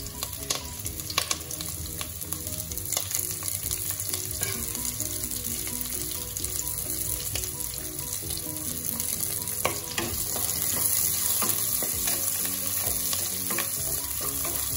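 Sliced onions and green chillies sizzling in hot oil and ghee in an aluminium pressure cooker, with scattered clicks of pieces and the spatula against the pot. The sizzle gets louder about ten seconds in, and near the end they are stirred with a spatula.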